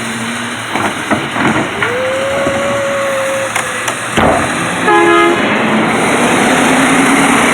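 Garbage truck at work: its engine running under a whine that rises and holds for about two seconds, a few knocks, and a brief horn-like tone about five seconds in.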